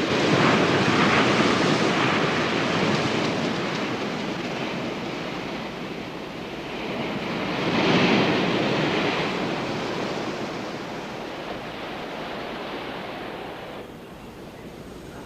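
Surf washing onto a beach: one wave breaks at the start and a second about eight seconds in, each fading into a long wash, quieter near the end.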